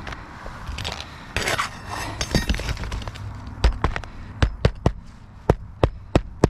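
Hammer driving nails while patching roof shingles: sharp blows, a run of them in the second half, after a brief rustling scrape about a second and a half in.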